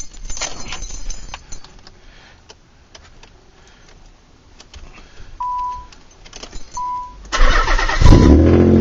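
Keys click and rattle, and two short beeps sound. Then, about seven seconds in, the Nissan 300ZX's 3.0-litre V6 cranks and catches, running loud and revving through its aftermarket dual exhaust.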